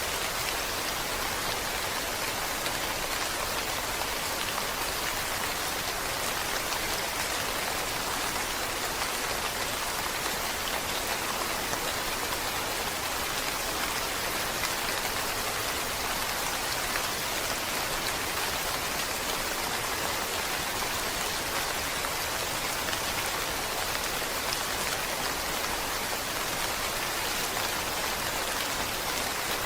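Steady rain falling, an even hiss that holds level throughout with no single sound standing out.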